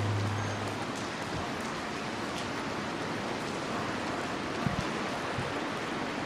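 Steady rain falling, an even hiss, with a low hum fading out in the first second and a few dull low thumps about two-thirds of the way through.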